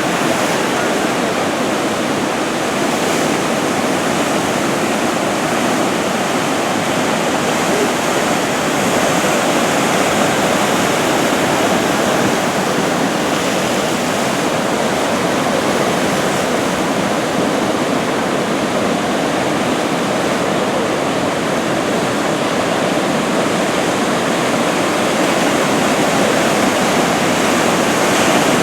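Ocean surf from head-high typhoon swell breaking on the shore, a loud, steady, unbroken rush of water.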